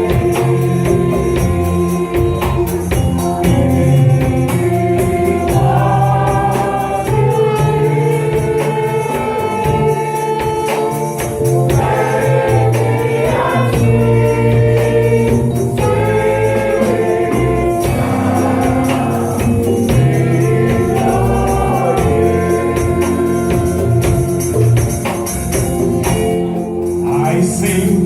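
Gospel choir singing a worship song with band accompaniment and tambourine.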